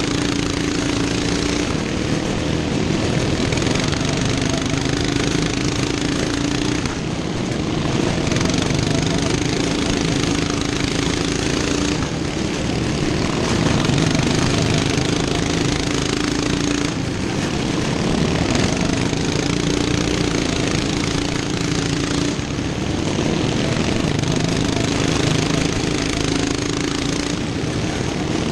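Racing lawn mower engines running hard at full throttle. A steady engine note breaks off and returns about every five seconds, as the mowers come past and move away.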